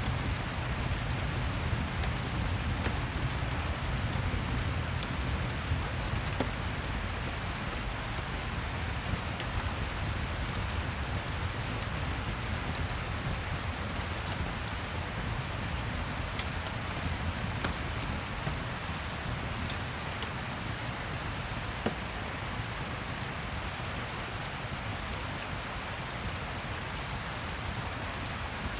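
Steady rain falling, an even hiss with a low rumble beneath it and faint scattered ticks, mixed with a crackling fireplace.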